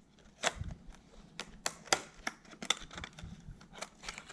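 Hard plastic jerkbait and its packaging being handled: a dozen or so sharp, irregularly spaced clicks and ticks.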